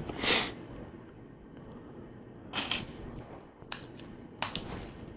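LEGO pieces being handled and pressed together: several short plastic clicks and snaps, the first and loudest about a third of a second in, the rest spread over the next few seconds.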